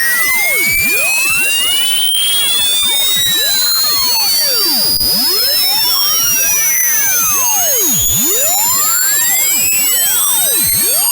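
Loud electronic tone sweeping slowly and steadily upward in pitch, from high to very high. Around it, a crowd of fainter piercing tones rise and fall in repeating arcs.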